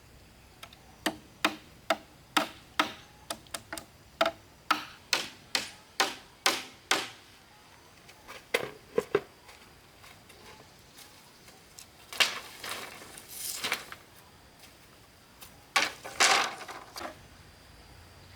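A run of hand-tool strikes: about fifteen sharp knocks, two or three a second, over the first seven seconds. Then a few longer rustling, scraping sounds.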